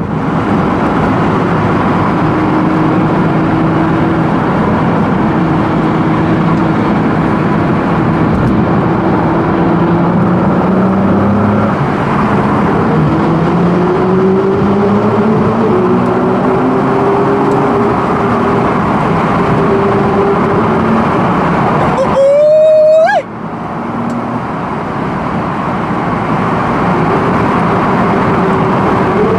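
Ferrari 488 GTB's twin-turbo V8 running under way, its engine note stepping up and down through gear changes over steady road noise. About 22 seconds in, a brief, louder rising whine cuts off suddenly.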